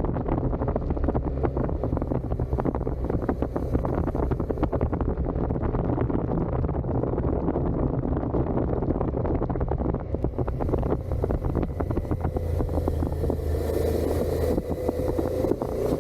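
Suzuki SV650's 90-degree V-twin engine running steadily through its stock exhaust while riding, with a rapid pulsing exhaust note. Wind buffets the microphone, growing stronger in the second half.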